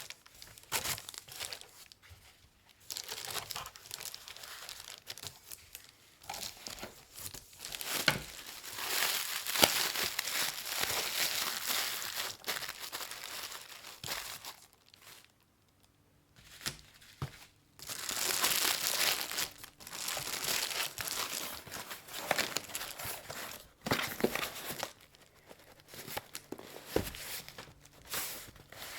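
Packing material being crumpled and handled while an order is wrapped for shipping, in irregular crinkling stretches with a brief pause about halfway through.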